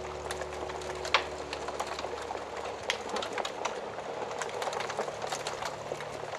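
Wood fire crackling in a fireplace, with irregular pops and one sharper snap about a second in.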